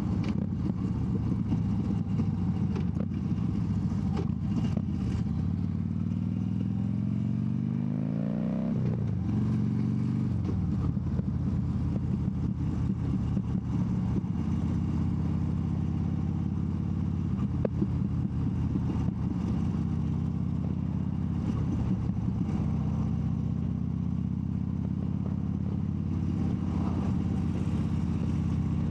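Harley-Davidson 2014 Dyna Wide Glide's 103-cubic-inch (1690 cc) V-twin running under way. Its pitch rises under acceleration until about eight seconds in, drops sharply at a gear change, then holds steady at cruising speed.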